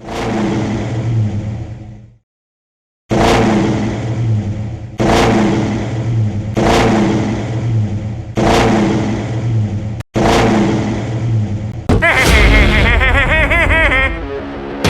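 A car engine revving in a string of short clips cut together. After a brief silence, each clip starts abruptly, about every second and a half to two seconds. Near the end a warbling, wavering sound comes in over a heavy low rumble.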